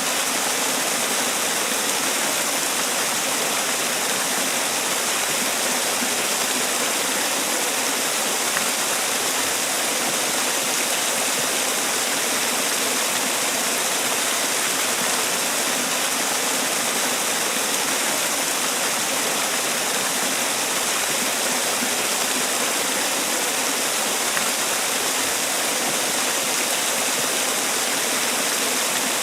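Man-made waterfall: water pouring and splashing in a steady, unchanging rush, with a strong hiss in the upper range.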